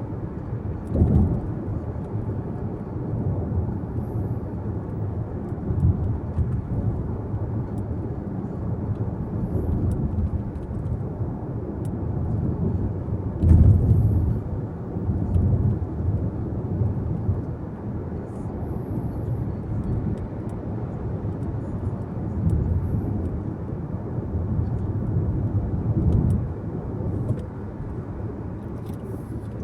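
Road noise heard from inside a moving car's cabin: a steady low rumble of tyres and engine. A few louder low swells come through, the biggest about halfway through.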